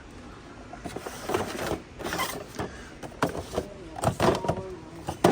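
Blister-packed die-cast cars being handled and sorted: irregular rustling scrapes of card and plastic packaging with several sharp clicks and clacks, starting about a second in.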